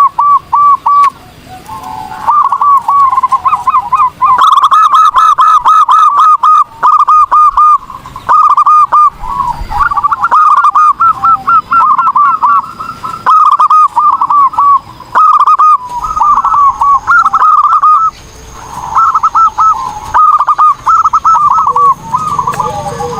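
Zebra dove (perkutut) singing loudly and close: runs of quick, staccato coo notes repeated in phrases separated by short pauses.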